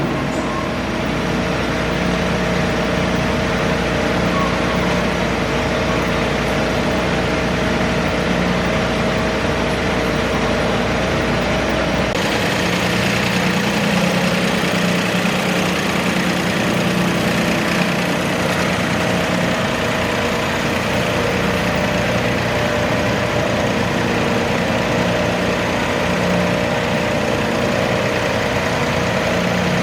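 Garden tractor engine idling steadily, its tone shifting about halfway through as a deep rumble drops away.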